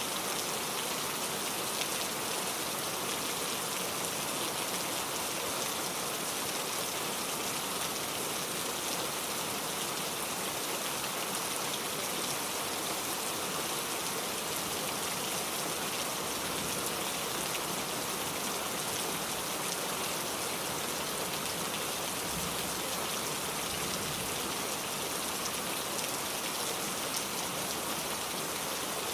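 Steady rainfall, drops pattering on surfaces in an even hiss.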